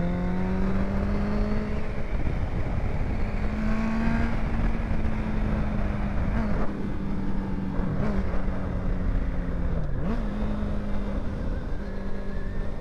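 Honda CBR650 inline-four with an aftermarket exhaust running under way at a steady cruise, its note dipping briefly and coming back a few times, over steady wind rush.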